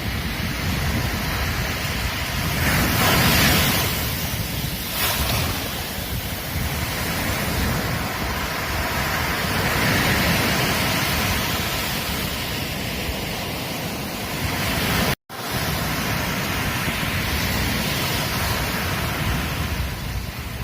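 Ocean surf breaking and washing on a beach as a continuous rushing wash, swelling with a bigger wave about three seconds in. The sound cuts out for a split second about fifteen seconds in.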